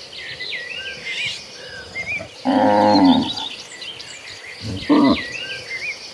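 Cattle mooing: one loud moo about two and a half seconds in and a short call near five seconds, over small high chirps throughout.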